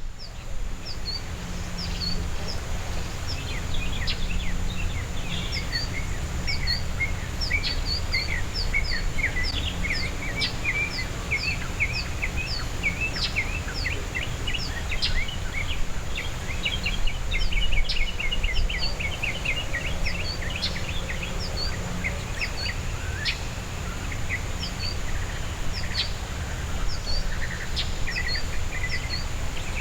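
Backyard songbirds calling: many short, sharp chirps repeating high up, mixed with faster chattering notes that are busiest for the first two-thirds, over a steady low rumble of outdoor background noise.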